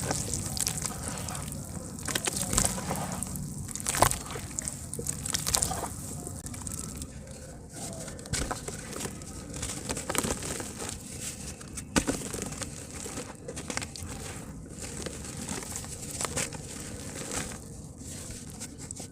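Soft dirt chunks crumbling apart in water: dense, irregular crackling with sharper pops now and then, the loudest about four seconds in and again near twelve seconds.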